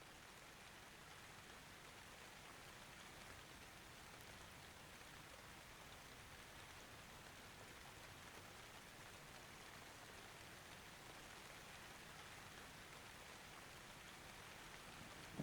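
Faint, steady rain, a soft even hiss with no thunder.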